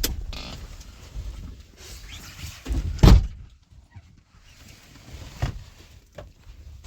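A single heavy thump about three seconds in, with a few lighter knocks before and after it.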